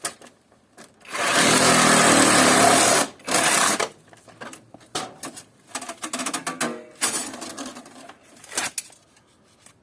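Copper pipes being handled and set down among scrap metal: a loud rattling clatter for about two seconds, a shorter one just after, then lighter knocks and clinks of metal.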